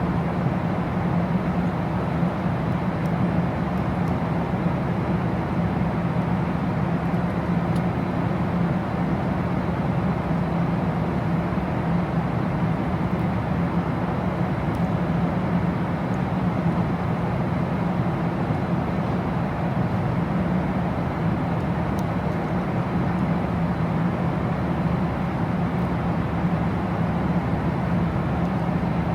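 Steady, unchanging rumble of a vehicle's cabin in motion, with a strong low hum and no breaks.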